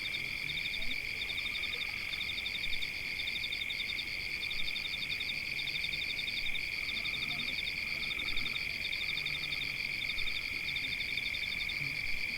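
Night chorus of frogs and insects: a steady high-pitched drone overlaid with rapid pulsing trills that repeat in runs of one to two seconds.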